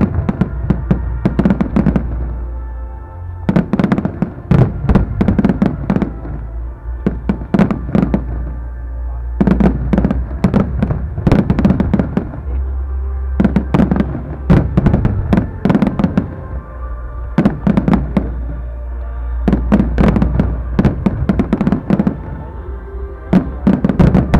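Fireworks display: quick volleys of sharp bangs from aerial shells going off every two to three seconds, over accompanying music with a steady bass.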